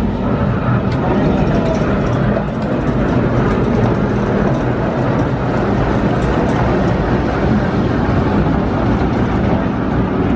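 Steady, loud rumble of a train running, with a low hum and faint voices in the background.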